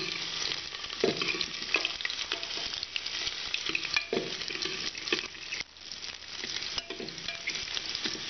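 Chopped garlic with cumin and coriander seeds sizzling in hot oil in a pressure cooker on a low flame, the garlic turning golden brown. A metal spoon stirs and scrapes the bottom of the pot now and then, about once a second.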